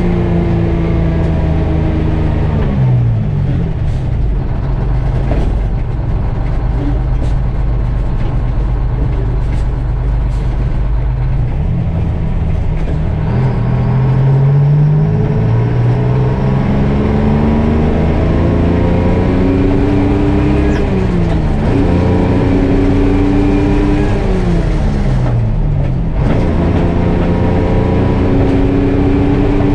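GMC Crackerbox cabover's Detroit Diesel two-stroke engine pulling hard through the gears: its pitch climbs, drops sharply at each shift, then climbs again, several shifts in a row.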